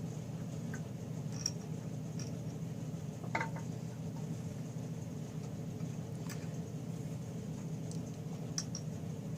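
A few light clicks and taps of small metal engine parts and tools being handled during reassembly, over a steady low hum.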